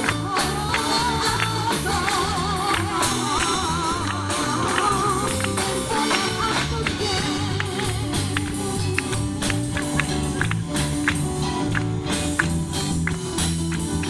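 Gospel worship song: voices singing with a wide vibrato over bass and a steady percussive beat, the singing dropping out about six seconds in while the instruments and beat carry on.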